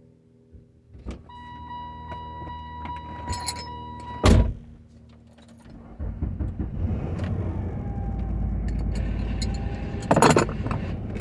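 Car sounds: a click, then a steady electronic warning tone for about three seconds, cut off by a loud thunk like a car door shutting. About six seconds in a steady low rumble starts and keeps going, with another loud knock near the end.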